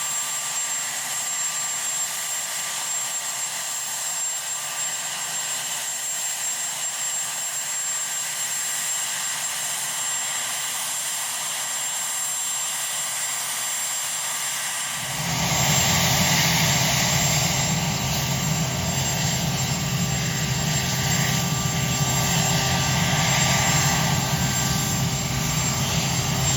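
Marine One helicopter's engines and rotor running steadily. About halfway through the sound abruptly gets louder and a deep, fluttering rumble comes in.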